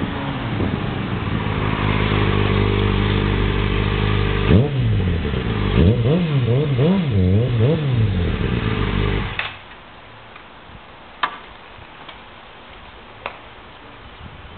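Kawasaki ZX-6R 636 inline-four running through a Muzzy aftermarket exhaust, steady at first, then blipped sharply once and revved up and down several times in quick succession. The engine shuts off abruptly about nine seconds in, followed by two faint clicks.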